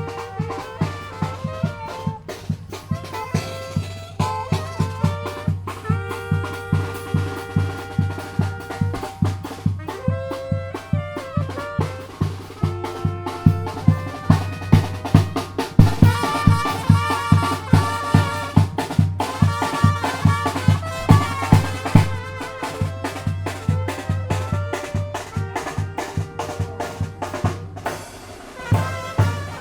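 A tamborazo band playing: brass horns carry the melody over a steady, driving beat of bass drum and snare. The music drops briefly about a second before the end.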